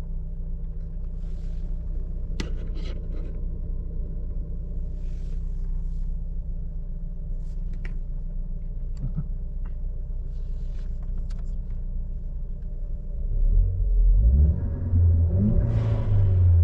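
Ford Focus ST's turbocharged engine idling steadily while it warms up from a cold start, through a stock exhaust. Near the end it is revved a few times, the pitch rising and falling and the engine getting louder.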